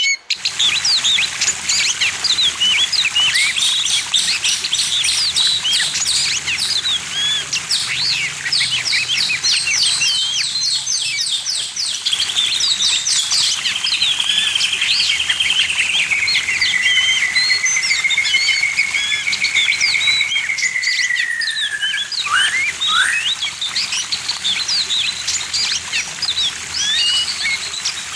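Several songbirds chirping and trilling at once in quick, high, overlapping calls. Through the middle, one long wavering whistle glides slowly down in pitch for about ten seconds, then breaks off.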